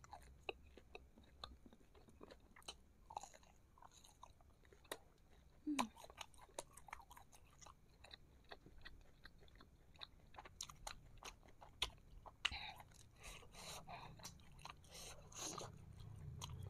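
Close-up mouth sounds of chewing fried meatballs (bakso goreng) in hot sauce: quiet, irregular soft clicks and smacks.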